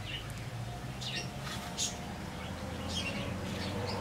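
Small birds chirping, a handful of short high calls scattered through, over a low steady hum.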